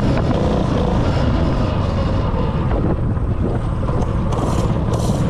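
A mini bike's 196cc single-cylinder four-stroke engine running steadily as the bike is ridden, with wind rushing over the microphone.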